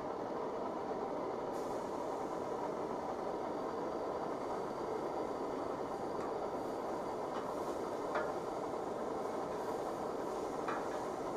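Slab of steak sizzling on a grill grate over a campfire: a steady sizzle that brightens about a second and a half in, with a few faint clicks and pops later on.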